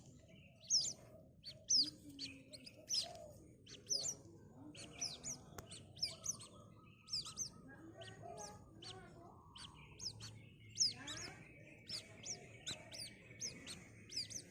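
White-breasted waterhen chick peeping: short, high chirps that slide down in pitch, repeated irregularly, sometimes several in quick succession.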